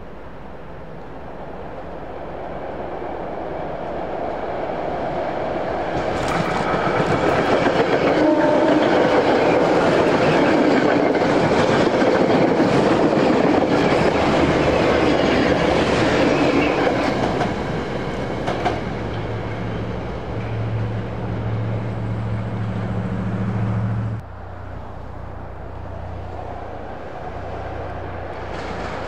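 A train approaches and passes close by, its wheels clacking over rail joints. The noise builds for several seconds, is loudest for about nine seconds, and then eases. Near the end a low steady hum cuts off suddenly.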